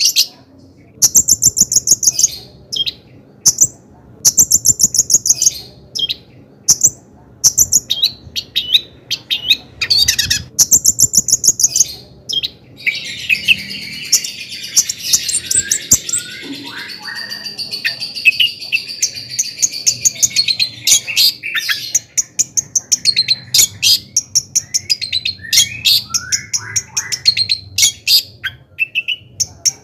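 Long-tailed shrike singing: fast runs of repeated sharp chirps. About halfway through, a busier stretch of continuous warbling chatter.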